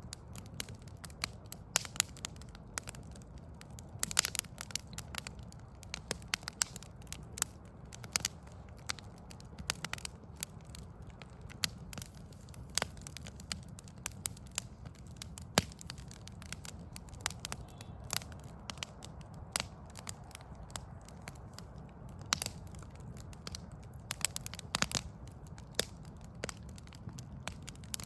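Wood fire burning, crackling with frequent irregular sharp pops and snaps over a steady low rumble.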